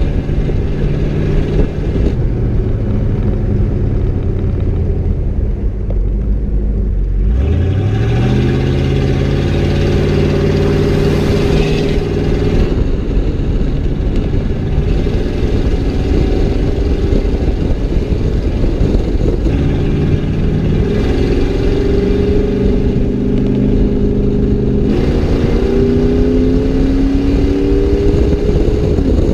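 Straight-piped 5.8-litre V8 exhaust of a 1992 Ford Bronco, heard from outside the truck while it is driven. The engine note sinks over the first few seconds, then climbs sharply under throttle about seven seconds in, runs on steadily, and climbs again in steps near the end as it accelerates through the gears.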